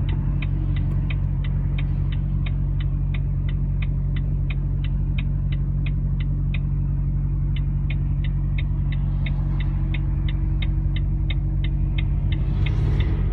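Car cabin drone from the engine and road, with a regular ticking about three times a second, like a turn-signal indicator, that pauses briefly about halfway through.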